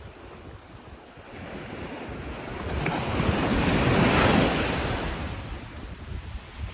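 Sea waves breaking on a beach. One wave swells from about a second in, crashes loudest around the middle, then washes out and fades near the end.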